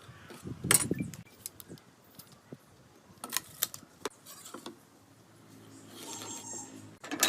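Scattered knocks and clicks of small hard objects being handled, with a louder knock about a second in and another near the end.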